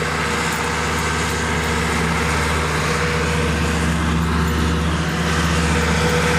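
Old tractor's engine running steadily while driving a topper mower cutting down field grass, a little louder toward the end.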